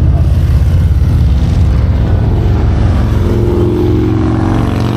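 Motorcycle engine idling with a pulsing low rumble. From about halfway through, a second engine's tone comes in and climbs steadily in pitch.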